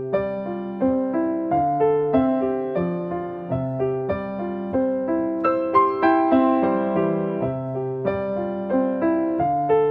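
Background music: solo piano playing gentle, evenly paced notes in a steady rhythm.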